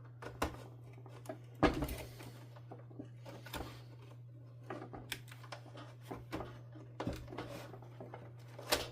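Scattered light clicks and rattles of wires, connectors and plastic parts inside a Hoover Dimension 1000 canister vacuum being handled. A louder knock comes about one and a half seconds in and another near the end, over a low steady hum.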